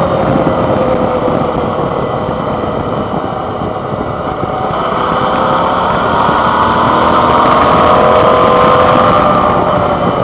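Suzuki DL650 V-Strom's 645 cc V-twin engine heard from the handlebar while riding, with wind rushing past: the engine note eases off and sinks for a few seconds, then climbs steadily as the bike accelerates again.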